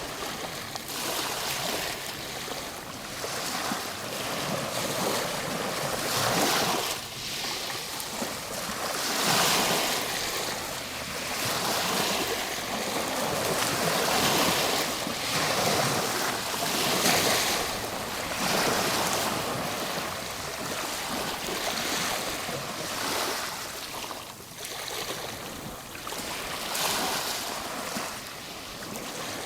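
Ocean waves washing onto a shore, a steady hiss that swells and eases as each wave breaks and draws back, every few seconds.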